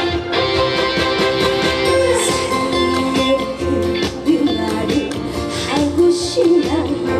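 Live band music with a guitar prominent over a steady beat, a trot song in performance.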